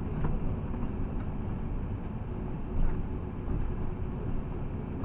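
Cabin noise of a LiAZ 6213.65 articulated city bus on the move: a steady low running rumble, with a short louder knock about three seconds in.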